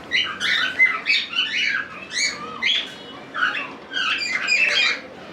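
Cockatiels squawking: a steady run of short, harsh pitched calls, two or three a second, with a brief pause about three seconds in.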